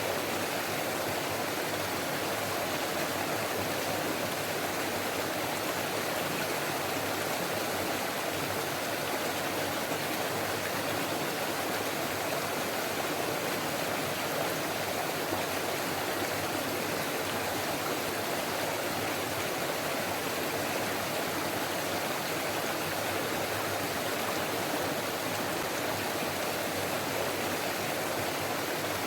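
Stream water flowing, a steady, even rushing that never lets up.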